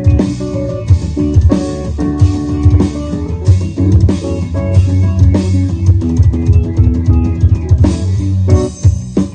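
A live band playing a song: drum kit with kick drum keeping a steady beat under guitar and bass guitar.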